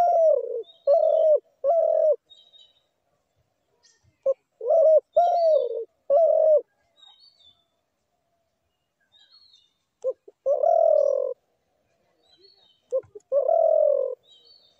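Spotted dove cooing in four phrases: two runs of short repeated coos, then two longer drawn-out coos near the end. Faint high chirps from small birds sound between the phrases.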